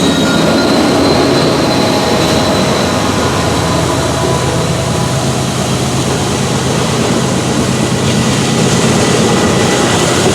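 Norfolk Southern freight train running by: a loud, steady low drone from its diesel locomotives with rumbling noise over it, and no clear breaks.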